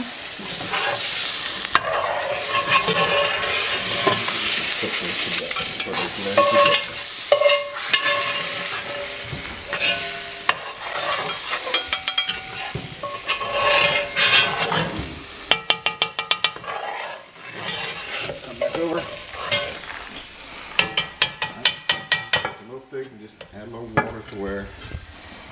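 Diced onions, bell peppers and canned Rotel tomatoes sizzling in a butter-and-flour roux in a heavy pot, stirred and scraped along the bottom with a slotted metal spoon. The spoon clicks and scrapes against the pot in two quick runs of strokes, about two-thirds of the way through and again near the end.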